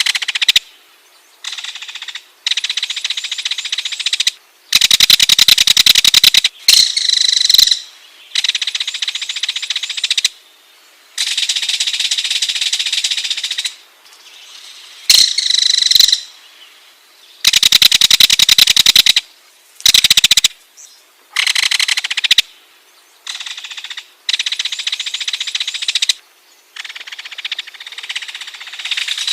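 Ringed kingfisher giving its rattling call in a series of bursts, each made of very fast clicks and lasting about half a second to three seconds, with short pauses between them.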